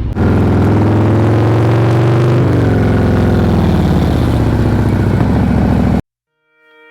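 Harley-Davidson V-twin motorcycle engine running on the move, steady and loud, with a shift in pitch about two and a half seconds in; it cuts off suddenly near the end.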